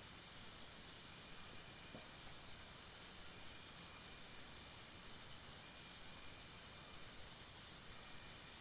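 Night-time tropical forest insects chirring steadily, a high pulsing trill over a faint hiss. Two short, sharp clicks cut in, about a second in and near the end.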